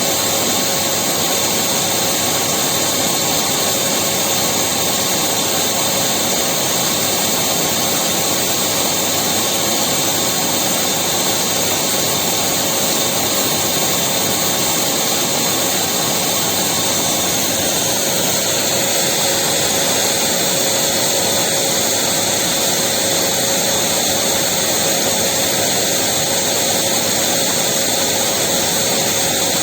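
Electric vacuum cleaner running steadily, a loud constant whooshing hum with a high motor whine.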